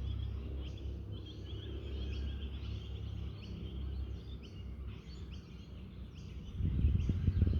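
Wind rumbling on the microphone with small birds chirping over it, short repeated calls; a stronger gust of wind comes in near the end.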